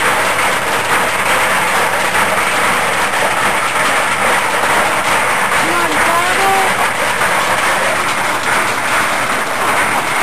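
A washing machine rigged as a spin-art machine running, a loud steady whirring noise that starts abruptly just before and holds without change. A voice is heard briefly about six seconds in.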